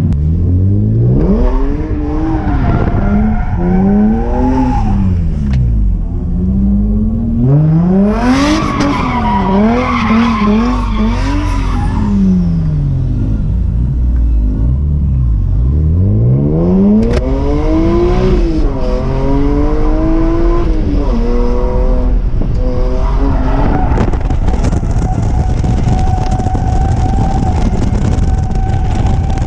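BMW E46 M3 drift car's S54 inline-six revving up and dropping back over and over through a drift run, with tyres squealing as the car slides. The squeal is heaviest about eight seconds in and again from about seventeen seconds on.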